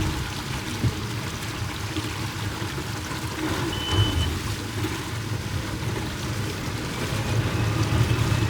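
Boat engine running steadily, with a low hum and water rushing and splashing alongside. A short high beep sounds about four seconds in.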